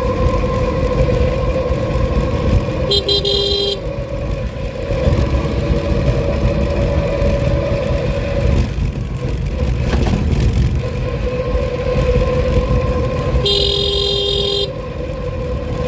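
A vehicle horn sounds twice, each blast about a second long and some ten seconds apart. Underneath is the steady whine and low rumble of a moving vehicle's motor, and the whine drops away briefly around the middle.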